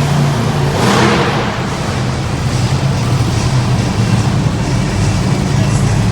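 Monster truck engine running with a steady low drone, with a brief rush of noise about a second in.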